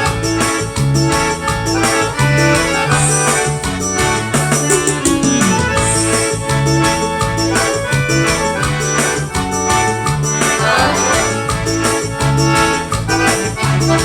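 Forró band playing an instrumental passage of the song with no singing, over a steady bass and percussion beat.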